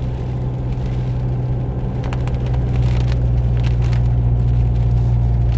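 A steady low rumble with scattered light ticks and crackles over it.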